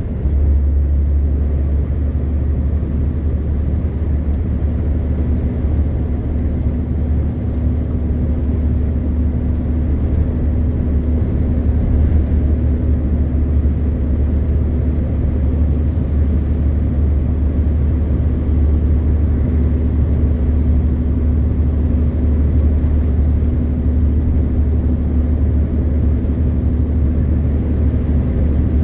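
MAN TGX 520 truck's six-cylinder diesel engine running steadily while driving, a deep continuous drone with road noise that swells slightly right at the start. A faint high-pitched whine sits above it.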